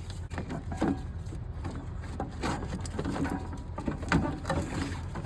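Worn AC belt being worked out from around the pulleys of a Cummins ISX engine: irregular light knocks, scrapes and rubbing as it comes free, over a steady low hum.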